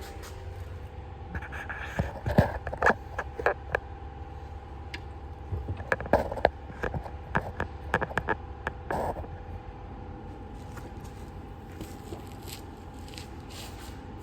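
A camera being handled and set down on a surface: irregular scrapes and clicks for the first nine seconds or so, over a steady low hum.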